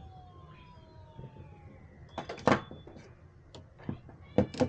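A few sharp knocks and clunks of hard parts being handled, the loudest a quick double knock about halfway through and another pair near the end.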